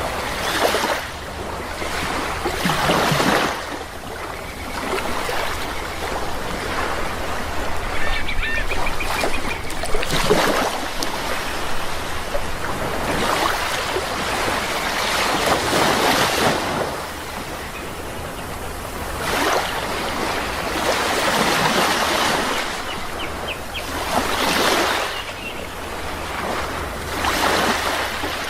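Sea waves washing in and drawing back in swells every few seconds, with a few short bird calls about eight seconds in.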